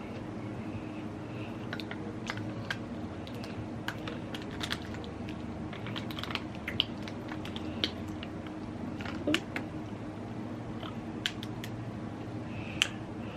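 Eating a seafood boil: irregular sharp clicks and cracks of crab-leg and shrimp shells being broken and picked apart, over a steady low hum.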